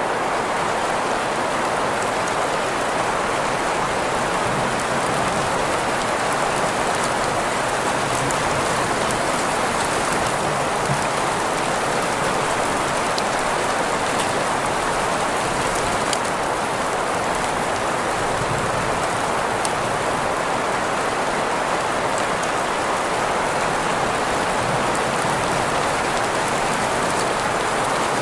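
Steady rain with scattered drop ticks, blended with green noise: an even hiss strongest in the middle range, with no change in level.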